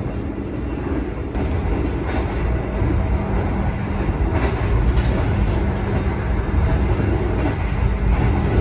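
Argo Semeru express train running at about 120 km/h, heard from on board: a steady rumble of wheels on rail with a few short clicks.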